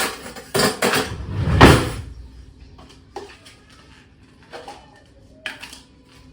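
Kitchen clatter as a spoon is fetched: dishes, cutlery and a cupboard or drawer knocking and rattling, loudest in the first two seconds, then a few lighter clinks.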